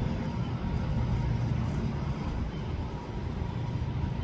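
Steady low rumble with a faint hiss over it, like an engine or traffic in the background; no distinct calls or knocks stand out.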